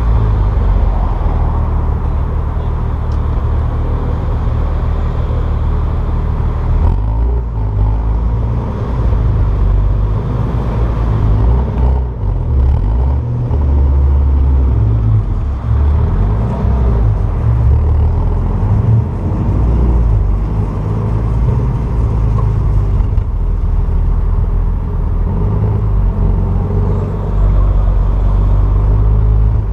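Exhaust of a 2002 Nissan Maxima's 3.5-litre VQ35DE V6 running steadily at low revs, a deep rumble. The exhaust has equal-length headers, the stock catalytic converter, a muffler and a straight pipe in place of the resonator, the setup its owner calls raspy.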